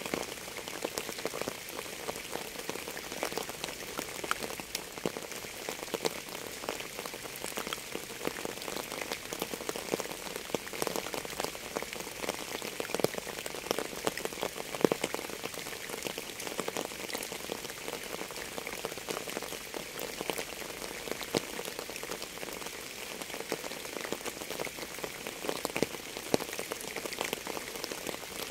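Steady rain falling, with many separate drops ticking on a surface in a constant patter.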